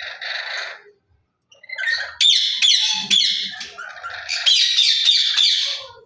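Lory parrot calling: a short burst of squawks, a brief pause, then a long run of rapid, high-pitched squawking chatter.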